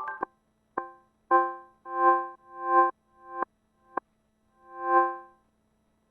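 Ambient synthesizer music. The full, busy texture stops almost at once, leaving one synth chord that swells in and dies away over and over, about once a second. Two of its returns are short, sharp stabs, and a faint low steady drone sits beneath.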